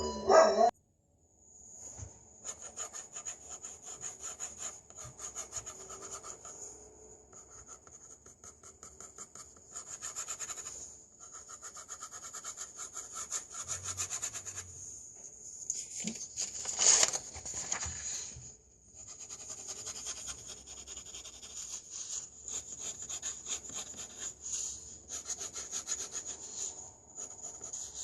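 Pencil scratching on paper in quick runs of short sketching strokes, stopping briefly now and then, with a louder run about two thirds of the way in. A faint steady high whine lies under it.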